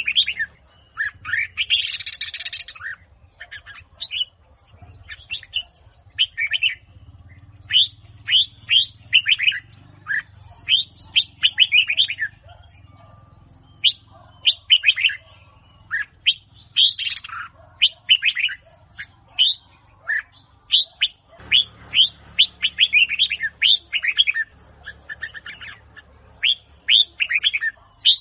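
Red-whiskered bulbul (Huế-type chào mào) singing: repeated phrases of quick, bright chirping notes, with a short lull about halfway through.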